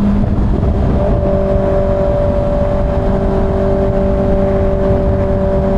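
Kawasaki ZX-6R's inline-four engine running at a steady speed while riding, over heavy wind rush.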